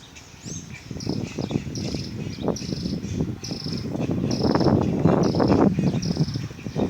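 A high, short chirp repeated evenly about every half second, from a small animal such as a cricket or bird. Under it is a louder, uneven low crackling rumble that builds from about a second in.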